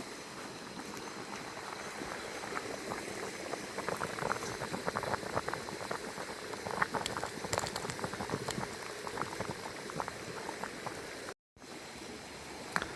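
Pot of soup boiling, a steady dense patter of small bubbling pops. The sound drops out completely for a moment near the end.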